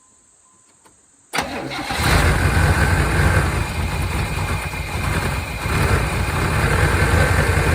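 1992 Chevrolet Caprice wagon's V8 engine cranking and firing a little over a second in, catching within about a second and then running steadily at idle.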